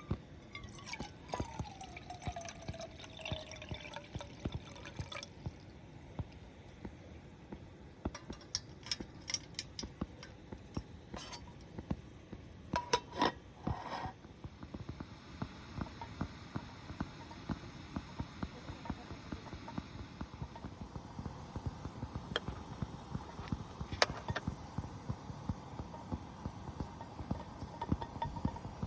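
Liquid pouring and dripping, amid frequent irregular small clicks and crackles.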